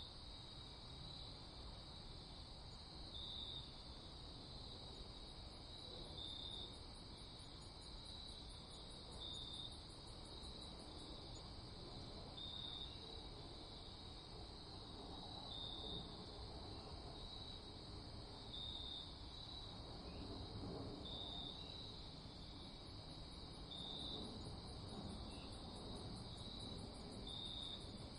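Night insects chirping: crickets keep up a steady high chirping, with a short louder chirp about every one and a half seconds. A faster, higher trill comes and goes twice over a faint low hush.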